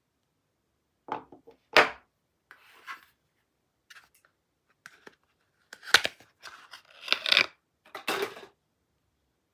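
Bars of soap and their packaging being handled: a few sharp knocks, with scraping and rubbing sounds in between, separated by short pauses.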